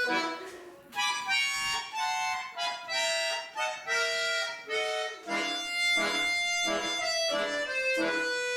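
A solo accordion playing a lively melody of short separate notes, with a brief break about half a second in before the tune carries on.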